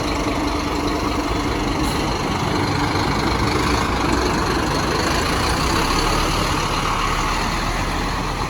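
A bus engine running steadily at idle nearby, with road traffic noise around it.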